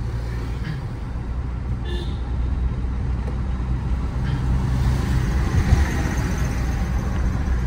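Tata Safari's 2.0-litre turbo-diesel engine pulling under acceleration, its turbo spooling. The low engine drone and road noise grow louder through the pull.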